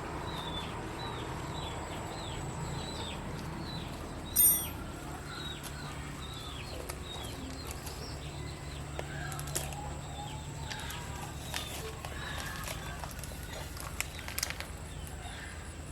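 A bird calling over and over with short falling chirps, about two a second, which thin out after about eleven seconds. About four and a half seconds in there is one brief, sharp, high-pitched ringing sound, the loudest thing heard, over a steady low hum.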